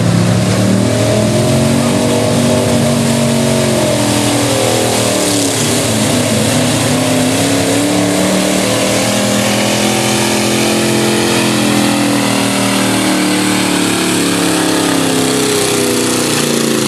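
4x4 truck engine running hard at high revs, its pitch repeatedly rising and dipping as the engine works under load.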